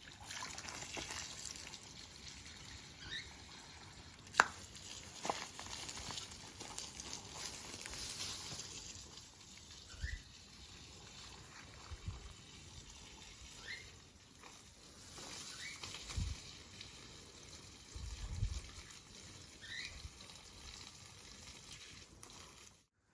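Water trickling, with a few short rising chirps now and then, a sharp click about four seconds in, and a few low thuds later on.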